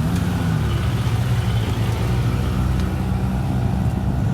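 Nissan Skyline R32 engine running at low revs as the car rolls out, with a brief rise and fall in engine pitch right at the start, then a steady low note.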